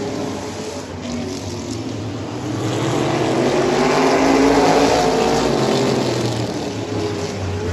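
A vehicle engine running steadily, growing louder around the middle and then easing off again.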